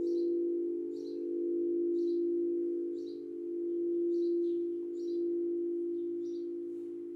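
Singing bowl ringing a steady low tone that swells and fades about every two seconds, with a bird's short high chirps repeating about once a second over it.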